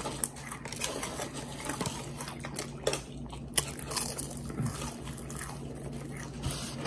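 Close-up eating sounds: chewing and biting with scattered crunches, from a meal of cheeseburgers and crisp double-fried fries. A low steady hum runs underneath.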